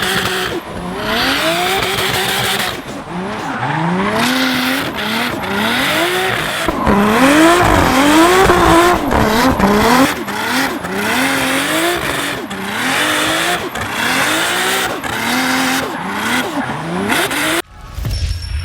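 Nissan Skyline R33's forged, single-turbo RB26 straight-six revving hard again and again while drifting, its pitch climbing and dropping every second or two, with tyre squeal under it. The sound cuts off suddenly near the end.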